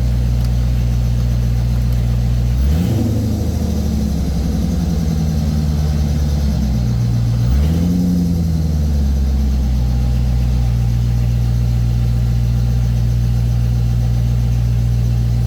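Chevrolet Corvette C5's V8 engine idling, revved twice, about three seconds in and again about eight seconds in, each time falling back to a steady idle.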